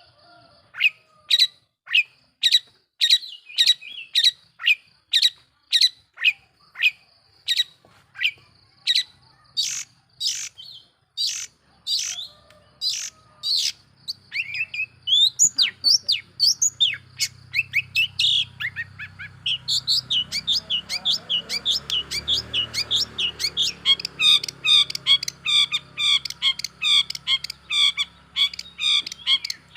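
Long-tailed shrike (cendet) calling: a steady series of sharp, harsh calls at a bit more than one a second, breaking about two-thirds of the way in into a faster, continuous chattering run.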